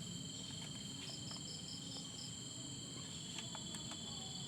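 Steady high-pitched insect trilling, with a short run of about six quick chirps a little after one second in and a few faint clicks.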